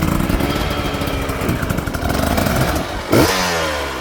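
Enduro dirt bike engine running and revving under load, with a sharp throttle blip a little after three seconds whose pitch shoots up and falls back.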